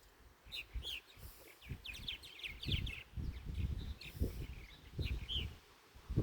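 Purple martins calling, short chirping notes in clusters that come again and again, with irregular low rumbling underneath.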